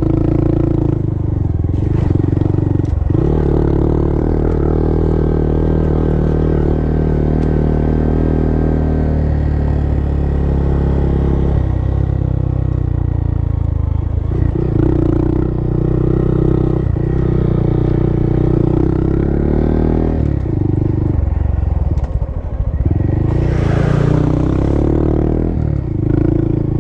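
Honda Monkey's single-cylinder four-stroke engine running under load on a dirt road. The revs drop and pick back up several times with the throttle and gear changes, with clatter from the bike over rough ground. A short rush of noise comes near the end.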